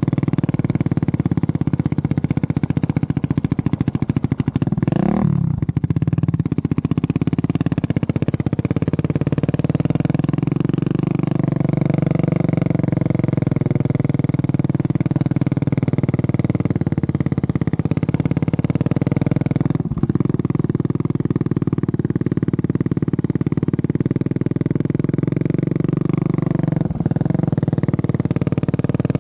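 Honda CB400SS single-cylinder engine running steadily under way, with a quick rise and fall in pitch about five seconds in and two brief dips later on.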